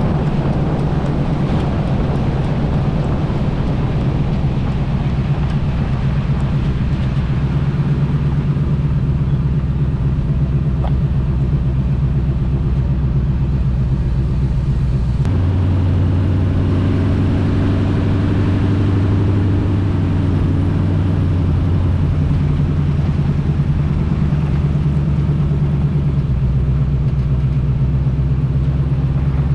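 1980 Chevy K20's 350 small-block V8 running steadily while driving, through glasspack mufflers. Its note changes abruptly about halfway through.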